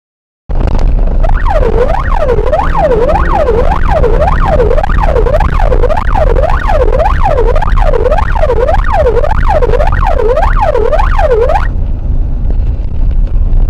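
Emergency vehicle siren on a fast yelp, its pitch sweeping up and down about twice a second, over a steady low vehicle rumble. The siren starts about half a second in and cuts off suddenly near the end, leaving the rumble.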